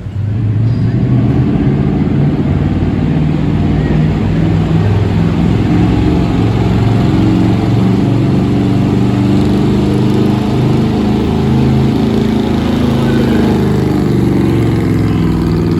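Gasoline pickup truck engine held at high revs under full load while pulling a weight sled, running loud and steady for the whole run with the pitch wavering slightly.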